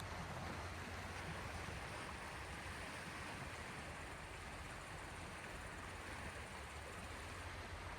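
Sea waves washing on the shore in a steady, even rush of water, with no single breaking wave standing out.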